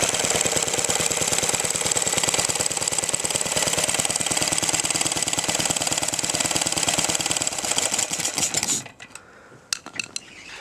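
Single-cylinder engine of an antique Lindsay air compressor, built from Merkel motor wheel parts, running with a fast, even firing beat. It slows and stops about nine seconds in, followed by a few faint clicks.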